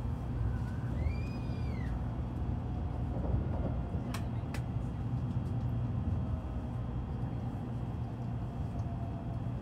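Steady low rumble of a Nozomi Shinkansen heard from inside the passenger cabin while the train runs. About a second in there is a short high squeak that rises and falls, and around four seconds in two sharp clicks.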